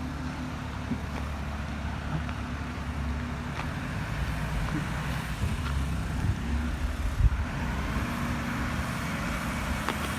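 Garbage truck engine running with a steady low rumble, with a few scattered knocks and clicks.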